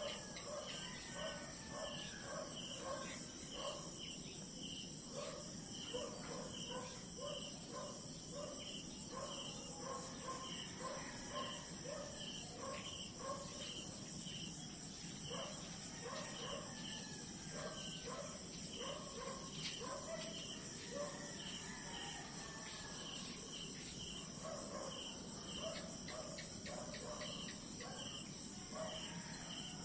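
Chorus of crickets and other insects: a steady high-pitched drone with regular chirps about two or three a second, over lower repeated pulsing calls from other animals.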